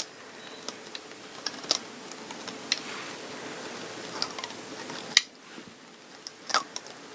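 Lint roller rolled across fabric: a steady rustling with scattered small clicks, which stops with a sharp click about five seconds in, followed by a few light clicks.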